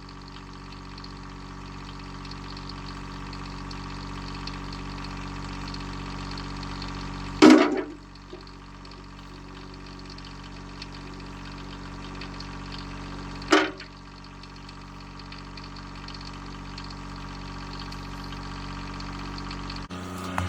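Kioti CK2610 compact tractor's diesel engine running steadily at working throttle, slowly getting louder. Two short loud bangs, about seven and thirteen seconds in, stand out over the engine.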